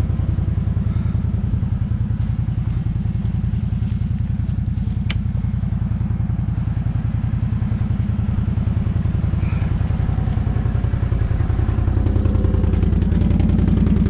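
Dirt bike engine running steadily, a little louder near the end, with one sharp click about five seconds in.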